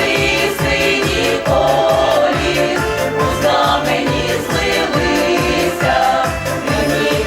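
A vocal ensemble singing a Ukrainian song together over an instrumental backing track with a steady beat of about two strokes a second.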